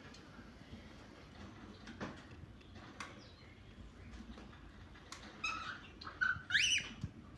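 Pet cockatiel calling: after a few faint clicks, a short call near the end, then a louder whistled chirp that rises and falls in pitch.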